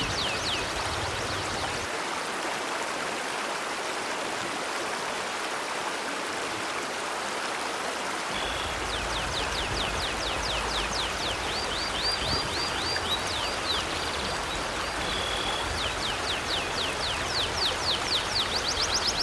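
River water flowing with a steady rush. From about halfway in, a bird calls a rapid series of high, down-slurred chirps, with a few short steady whistled notes; a brief burst of similar chirps comes in the first second.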